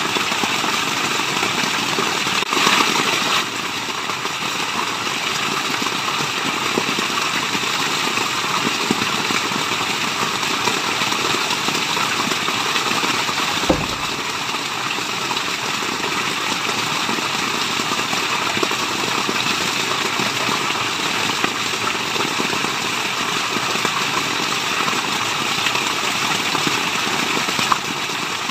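Waterfall: a steady rush of falling water, briefly a little louder about three seconds in, with a single low thump near the middle.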